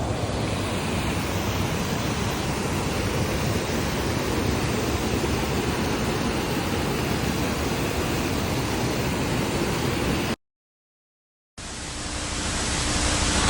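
Steady rushing of river water. It cuts out completely for about a second near the end, then comes back.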